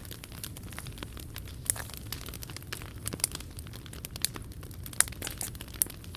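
Wood fire in a POMOLY T-BRICK Ultra fire box crackling, with irregular sharp pops over a low, steady sound of burning.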